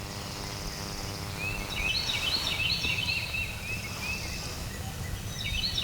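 Songbirds singing in spring woods at dawn: a quick run of repeated high chirping notes that starts about a second and a half in and carries on, over a low rumble. A faint, steady hum fades out during the first two seconds.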